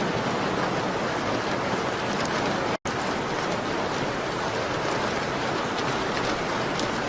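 Steady rain on a window, an even hiss with faint scattered ticks. It cuts out completely for an instant about three seconds in.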